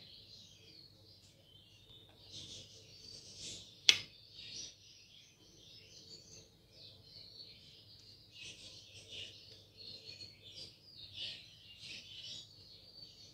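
Small pet birds chirping and chattering steadily, with one sharp click about four seconds in.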